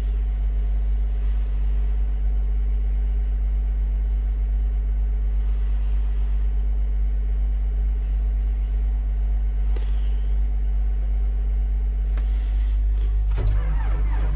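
Steady low engine drone, a diesel vehicle engine running or turning over without change, with a couple of faint clicks. Music comes in near the end.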